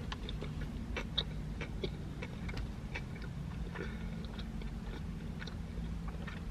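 A person chewing a mouthful of burger: irregular small wet clicks and smacks of the mouth eating, over a low steady hum.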